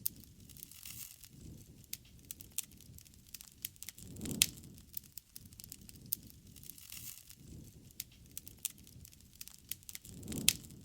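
Wood campfire crackling, with irregular sharp pops and snaps. A low rushing swell rises twice, with the loudest pop about four seconds in and another swell near the end.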